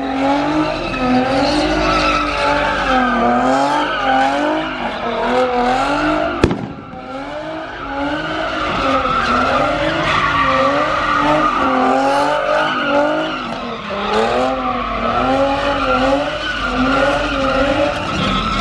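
A car's engine revving up and down again and again while its tires squeal, as in donuts or a burnout. A single sharp crack comes about six and a half seconds in.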